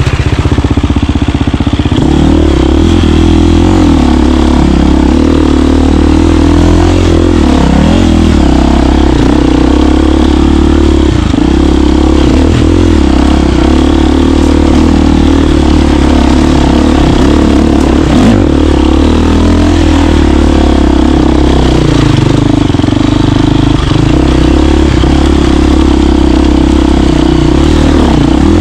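KTM 350 dirt bike's four-stroke single-cylinder engine running under way, loud and continuous. Its note shifts a couple of times as the throttle changes.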